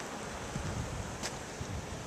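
Wind buffeting the microphone: a steady rushing hiss with uneven low rumbles as gusts hit, and a faint click a little past the middle.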